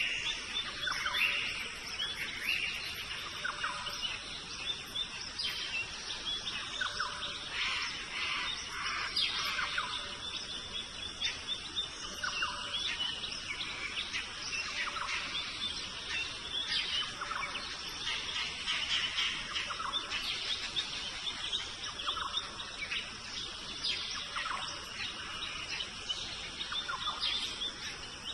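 Birds chirping and calling in many short notes over a steady hiss of insects.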